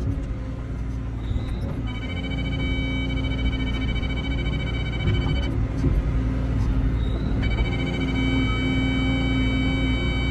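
Caterpillar 317 excavator's diesel engine running while digging, with a high electronic ringing tone sounding in two long stretches, one starting about two seconds in and one about seven seconds in, each lasting several seconds.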